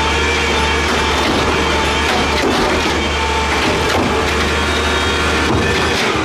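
Peterbilt 320 garbage truck's diesel engine held at high revs, loud and steady, with a rough, noisy layer over a deep low note.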